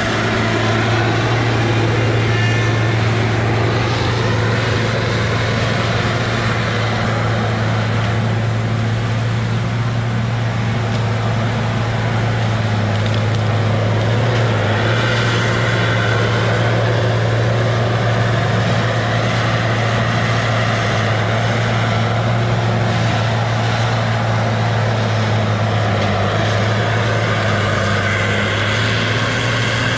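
Heavy diesel engine of a Tigercat rubber-tired feller buncher running steadily at a constant high speed, with a steady low drone.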